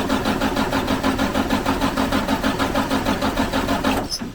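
Starter cranking the 2004 Freightliner Columbia's diesel engine in an even rhythm, stopping suddenly about four seconds in; the engine turns over but does not fire.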